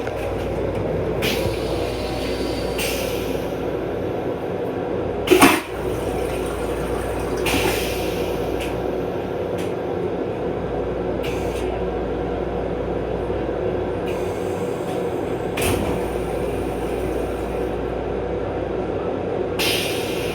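Steady running hum of a moving Metro-North M7 electric railcar, with one loud, sharp sound about five seconds in and a few fainter knocks later on.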